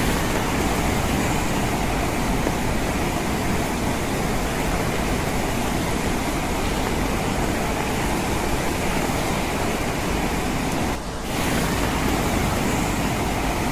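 Steady, even rain on a window pane, with a brief dip in level about eleven seconds in.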